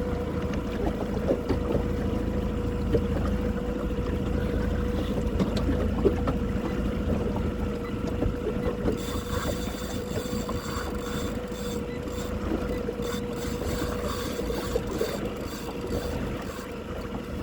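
Motorboat engine running steadily, a constant hum with a low rumble, as the boat follows a hooked fish.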